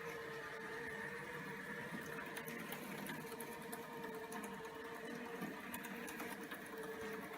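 ILIFE A4 robot vacuum cleaner running, a steady motor hum with a constant whine and a few faint ticks.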